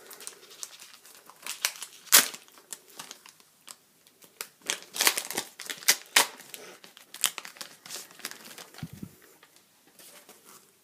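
Foil booster-pack wrapper being torn open and crinkled by hand, a run of irregular crackles with the loudest about two seconds in.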